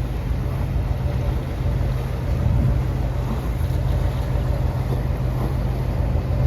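Boat engine running with a steady low rumble, mixed with wind noise on the microphone.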